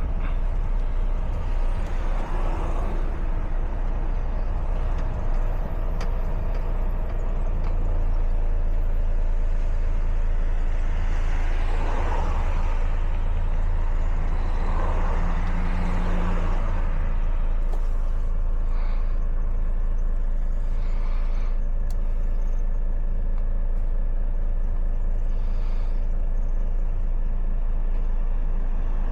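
A truck's diesel engine running with a steady low drone, with brief rushing swells of noise about two, twelve and fifteen seconds in.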